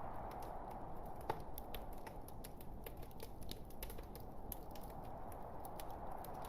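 Log fire crackling and popping over a steady low rush, with one sharper pop a little over a second in.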